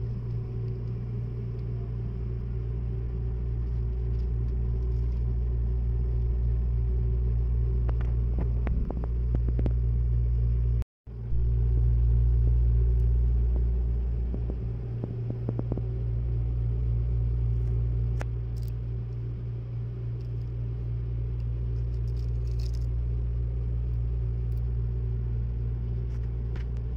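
Steady low rumble of a Seibu Laview limited-express train running, heard from inside the passenger cabin, with a few faint clicks partway through. The sound drops out briefly about eleven seconds in.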